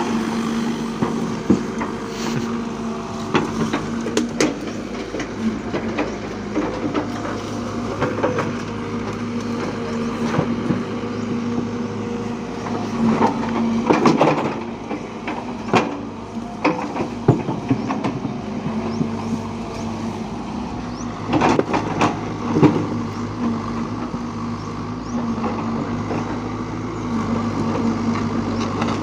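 Heavy machinery's diesel engine running steadily, with scattered metallic clanks and knocks over it.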